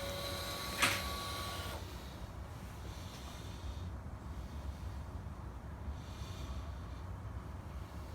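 Honda Africa Twin CRF1100's parallel-twin engine idling on a cold start, a steady low rumble. A couple of sharp clicks and a short high whine come in the first two seconds.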